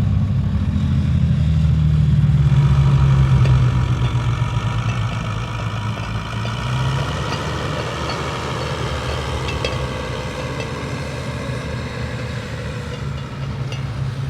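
Tractor engine running at a steady speed, loud for the first few seconds and then quieter.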